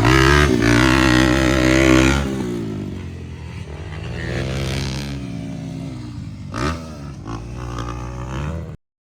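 Motocross motorcycle engine revving hard for about two seconds, then easing off and running lower, with another short rev near the end before the sound cuts off suddenly.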